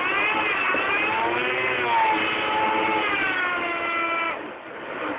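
Ford Mustang's engine revving hard with a wheel spinning in deep snow: the car is stuck. The pitch swings up and down, is held high for about two seconds, then drops away sharply about four seconds in as the throttle is let off.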